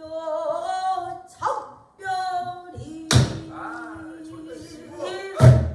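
A pansori singer holds and bends long sung notes, accompanied by a buk barrel drum. The drum is struck twice, about three seconds in and again near the end, each stroke a sharp crack with a low thud.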